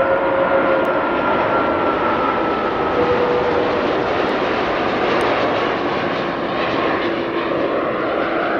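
Airbus A330 jet engines running loud and steady, a rushing noise with faint whining tones that drift slowly lower in pitch.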